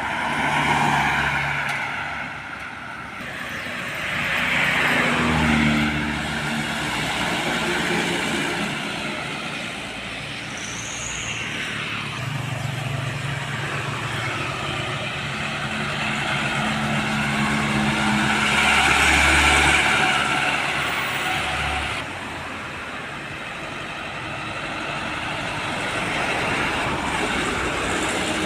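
Road traffic passing close by: trucks and cars go past one after another, each engine and its tyre noise swelling up and fading away, with the loudest pass-by about two-thirds of the way through.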